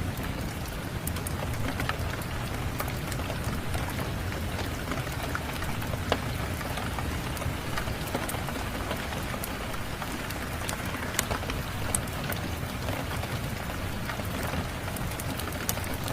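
Steady rain with a low rumble under it, and a few scattered sharp crackles from a wood fire.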